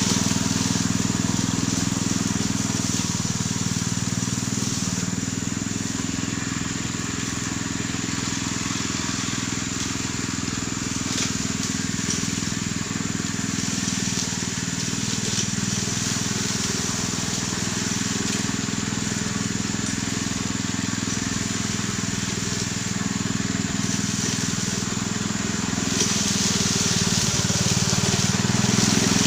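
Small engine of a homemade push grass cutter running steadily under load while its blade cuts through grass and brush.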